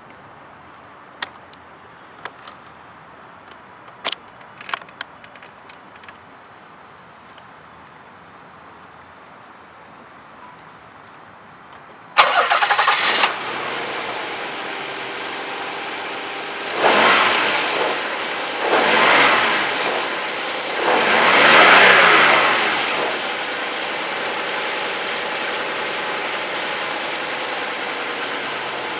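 A few light clicks, then the 1993 Nissan Cedric GT's 3.0-litre V6 cranks and starts about twelve seconds in, is revved three times, and settles to a steady idle.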